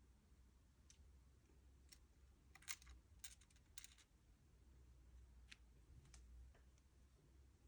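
Faint, scattered small clicks and taps from handling small hard items such as batteries and their packaging, about eight in all, loudest in a cluster about three seconds in.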